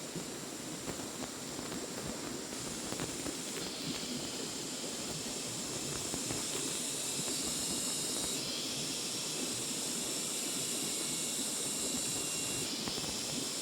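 Steady hissing outdoor noise with high-pitched, steady droning layers that come and go, louder in the second half.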